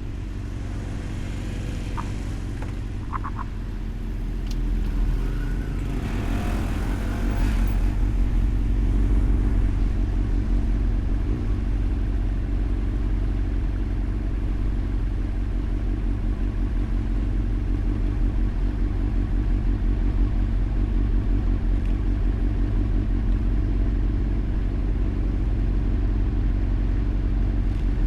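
Motorcycle engine running with a steady low rumble, growing louder about six seconds in and then holding steady. A few short high chirps sound near the start.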